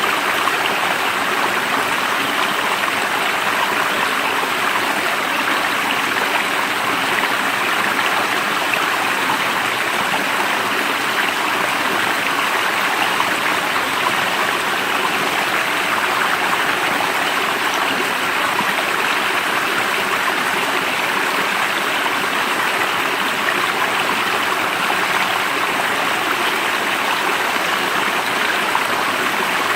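Water of a stream running steadily, an even rushing without a break.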